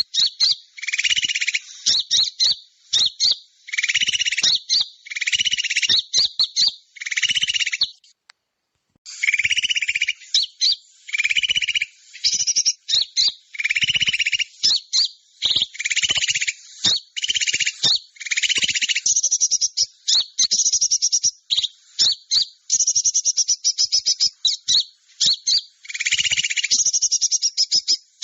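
Bird-lure recording of small birds calling: dense bursts of high, chattering trills and chirps repeating every second or two, with a short break about eight seconds in.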